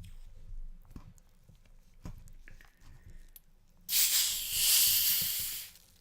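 A carbonated cola being opened, a few soft clicks of handling and then a loud hiss of escaping gas lasting about two seconds, starting about four seconds in and fading away.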